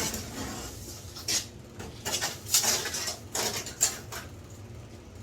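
A handful of short scrapes and clatters of objects being moved and set down, spaced about half a second to a second apart.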